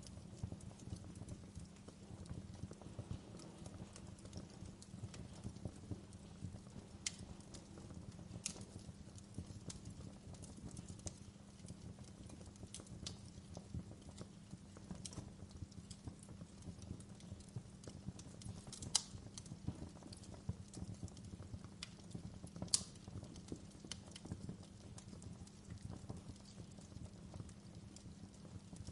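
Wood fire crackling in a fireplace: a low, steady rumble of burning with irregular sharp pops and snaps, a handful of them louder than the rest.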